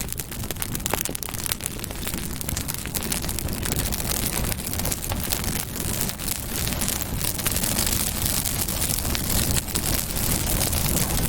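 Campfire burning, with a dense, irregular run of crackles and pops over a steady low rumble.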